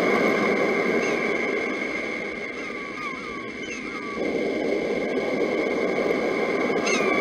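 Sea surf rushing steadily, with birds calling over it in short falling chirps about once a second against a steady high tone. The surf fades for a couple of seconds and comes back suddenly a little past halfway.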